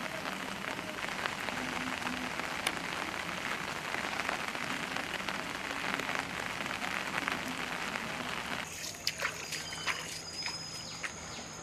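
Heavy rain falling, a steady hiss of rain dotted with the clicks of drops striking surfaces. Near the end it drops abruptly to a quieter patter with a thin high whine.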